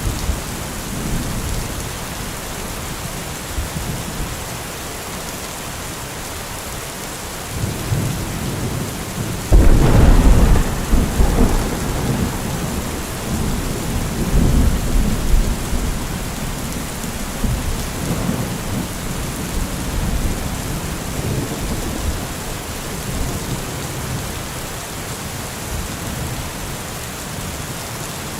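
Steady rain with thunder: a low rumble builds about a third of the way in, breaks into a loud clap, and rolls on for several seconds, with a fainter rumble a little later.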